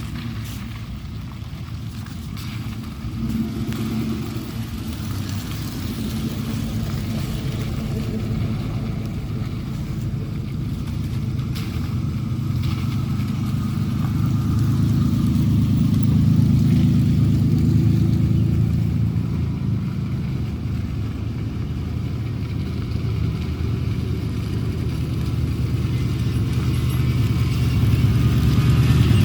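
Toyota Tacoma pickup's engine running as it drives a rough off-road trail, swelling in loudness about halfway through and again near the end, with a few brief knocks.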